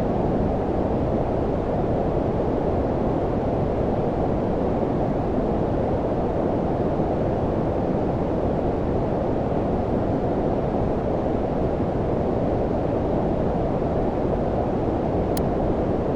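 Steady low-frequency white noise, brown-noise-like: an even, deep hiss with little treble that does not change.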